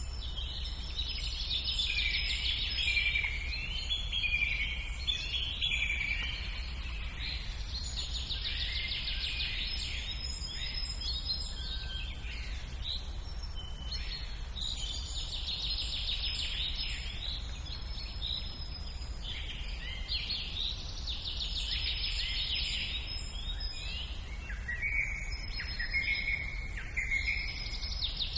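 Many birds chirping and singing together in a dense chorus that swells and fades in waves every several seconds, over a steady low rumble.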